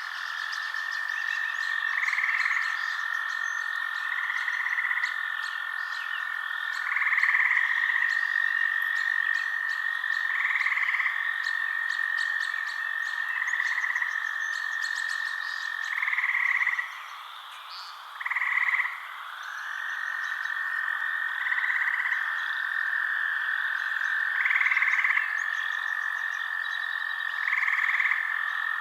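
Night chorus of frogs: a steady high trill runs continuously, with a louder call repeating about every two to three seconds. The trill stops for a couple of seconds about two-thirds of the way through, then resumes.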